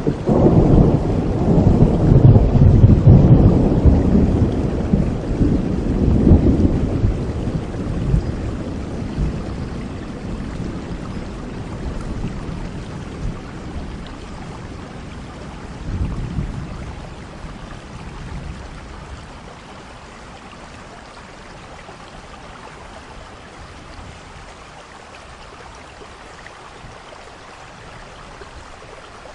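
Thunderstorm: a long, low roll of thunder in the first several seconds that slowly dies away, a smaller rumble about halfway through, over steady rain that carries on alone near the end.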